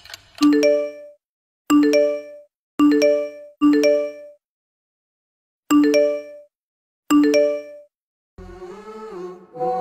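A messaging-app notification ding, sounding six times at uneven gaps, each a short bright chime. Near the end, hummed music begins.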